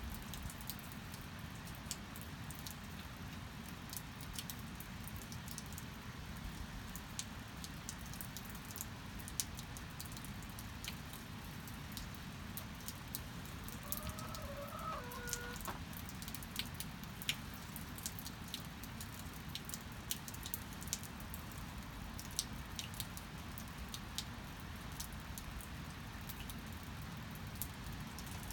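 Steady rain with scattered drips, and a chicken giving a short two-note call about halfway through.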